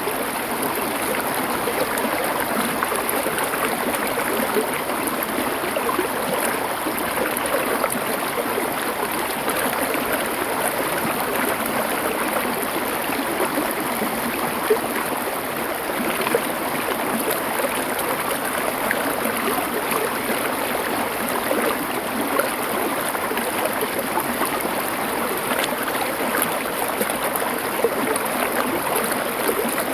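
Stream water flowing over stones in a steady, even rush.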